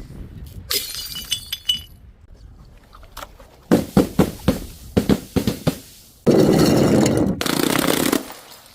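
Glass breaking: a brief high tinkle of shards about a second in, a quick run of sharp knocks around the middle, then a loud, dense shattering noise lasting about two seconds near the end.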